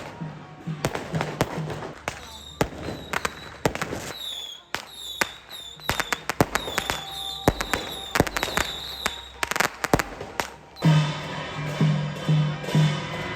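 A rapid, irregular run of sharp cracks and pops mixed with high chirps, then background music with a steady beat comes in about eleven seconds in.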